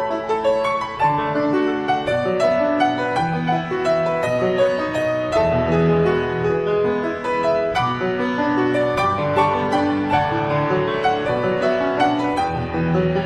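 Background piano music: a steady flow of notes, in a classical style.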